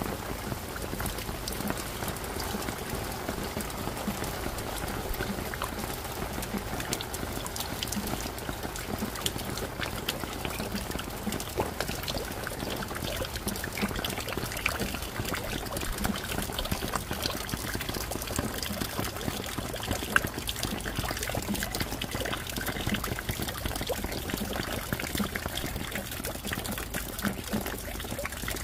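Steady rain with many separate drops ticking, and water trickling and running.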